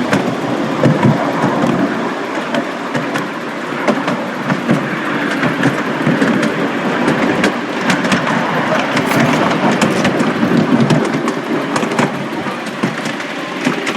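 Miniature railway train running along the track: a steady noisy rush scattered with many small sharp clicks.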